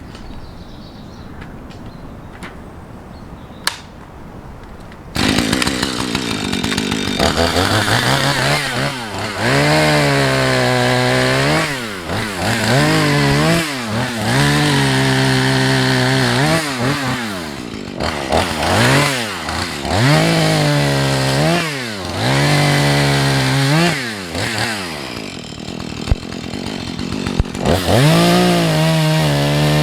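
Two-stroke chainsaw that starts about five seconds in and cuts into a tree trunk. The engine repeatedly revs up and then bogs down in pitch as the chain takes load, then climbs back to high revs near the end.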